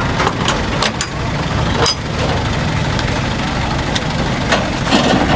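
Truck engine idling steadily, with a few sharp knocks and clatters about one and two seconds in.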